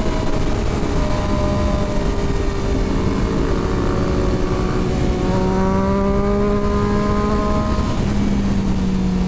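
Motorcycle engine pulling at highway speed, its note rising slowly and easing off slightly near the end, with heavy wind rush on the rider's helmet microphone.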